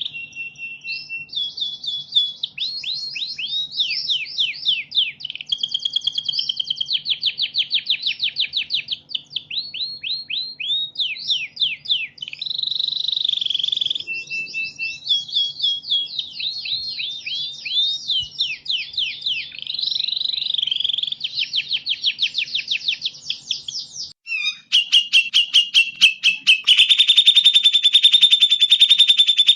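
Recorded songbird song for masteran (training caged birds): fast, varied chirps, trills and whistled phrases. Near the end it gives way to a fast, dense buzzing trill that holds steady.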